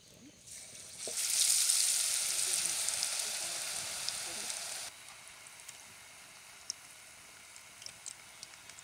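Batter-coated banana slice dropped into hot oil in a pot: a loud frying sizzle starts about a second in and slowly eases off. It cuts off suddenly about five seconds in, leaving a faint hiss with scattered small crackles.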